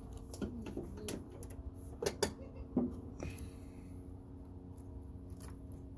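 A few separate clicks and clunks as the lawn tractor's parking brake is set and the ignition key is turned, with no starter cranking at all, over a faint steady hum. The dead key was traced to a loose connection at the starter solenoid.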